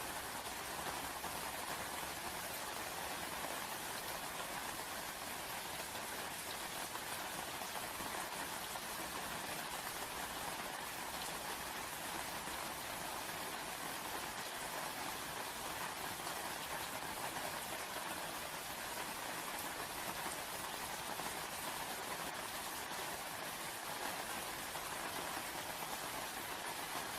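Steady rain falling on a surface, an even patter of drops that holds constant throughout.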